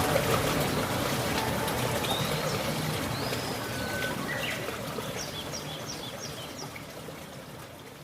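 Running water, like a small stream, with birds calling over it: a few whistled notes, then a quick run of about five short notes. The whole sound fades steadily down.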